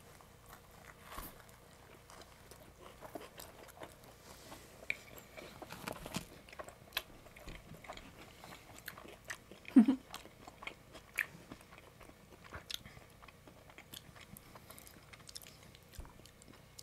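Two people biting into and chewing pizza slices, with soft wet mouth clicks and small crust crunches. One brief, louder, low sound about ten seconds in.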